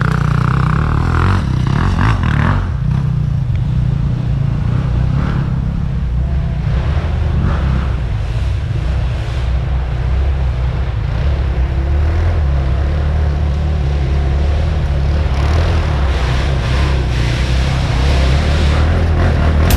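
Dirt bike riding along, its engine running steadily over a heavy low rumble.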